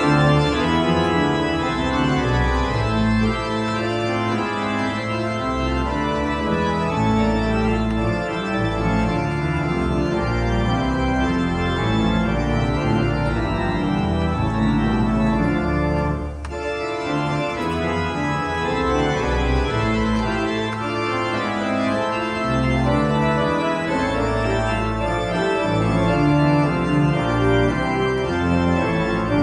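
Pipe organ playing a piece of full chords with held notes and deep bass pedal tones, the chords changing every second or so. About sixteen seconds in it drops briefly in loudness before going on.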